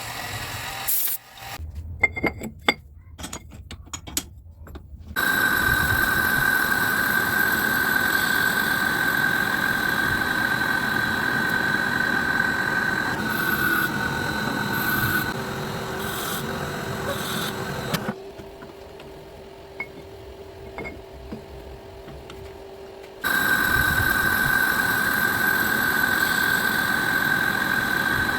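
Electric workshop power tool motor running with a steady high whine. Before it there are a few light clicks and knocks. It starts about five seconds in, falls back to a quieter, lower hum for several seconds, then runs up to full whine again near the end.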